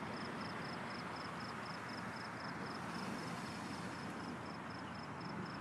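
Crickets chirping: a faint high chirp repeating evenly about five times a second over a steady background hiss.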